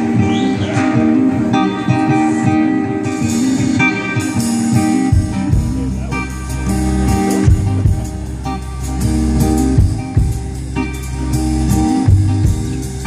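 Live band music with guitar to the fore; a deep bass line comes in about five seconds in.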